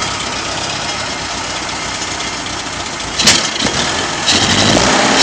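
Datsun engine idling steadily, then a sharp knock about three seconds in, and the engine gets louder about a second later.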